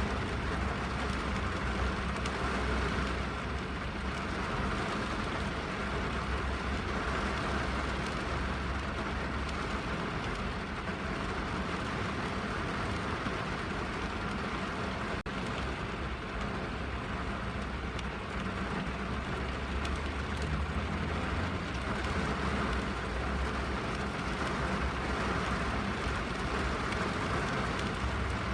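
Steady rain falling on a car, heard from inside the cabin, with a deep low rumble under the rain. A momentary dip about halfway through.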